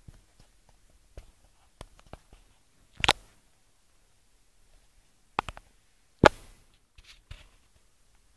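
Scattered clicks and knocks of small objects being handled, with sharper knocks about three and six seconds in.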